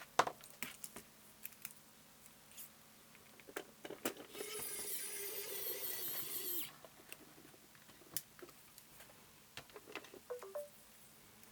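Scattered small clicks and knocks of hands working on a hi-fi decoder's casing and parts, with a steady scraping noise lasting about two and a half seconds from around four seconds in.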